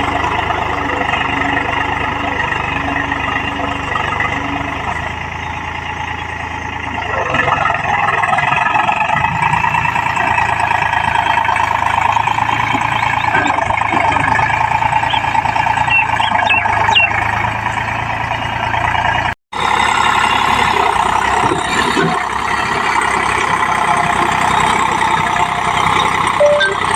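Eicher tractor's diesel engine running steadily while pulling a plough, with a brief break in the sound about two-thirds of the way through.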